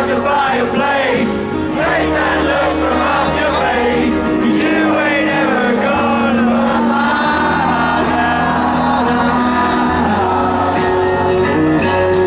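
Live band music with a singer, and a crowd shouting and whooping along.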